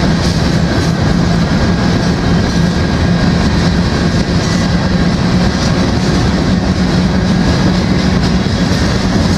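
Empty covered grain hopper cars of a freight train rolling past, with steady, loud wheel-on-rail noise and a steady low hum.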